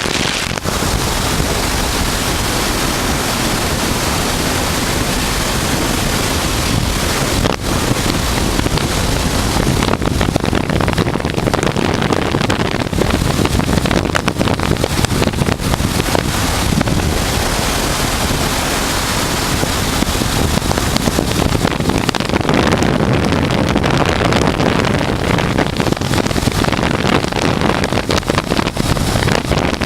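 Wind rushing over the microphone at road speed, with a Honda Transalp's V-twin engine running steadily underneath.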